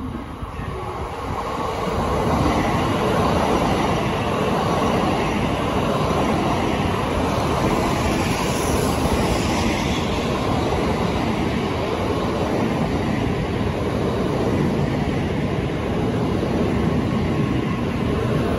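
An N700A Shinkansen train pulls into the station. It grows louder over the first two or three seconds as it approaches, then makes a steady rushing rumble of wheels and running gear as the long train rolls past.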